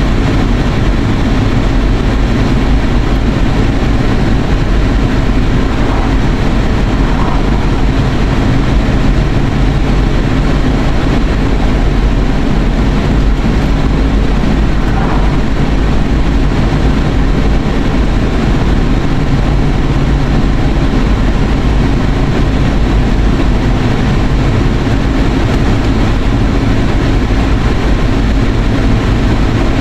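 Steady road and engine noise inside a moving car's cabin: a constant low rumble with no change in pace.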